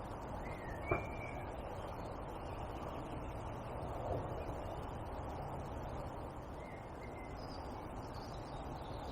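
Steady low outdoor background noise with a few short, faint bird calls and one sharp click about a second in.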